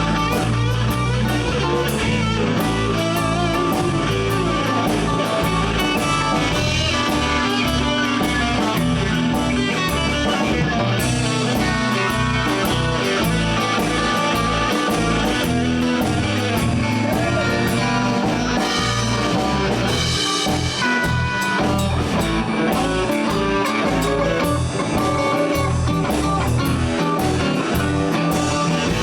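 Live blues band playing: guitars over bass and a drum kit keeping a steady beat.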